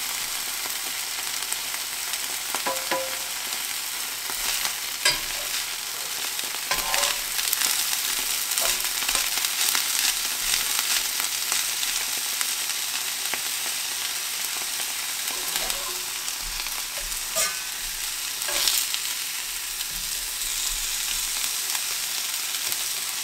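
Rye bread frying in clarified butter in a cast-iron skillet and corned beef slices on a cast-iron griddle, a steady sizzle throughout, with a few light clicks and scrapes of kitchen utensils against the pans.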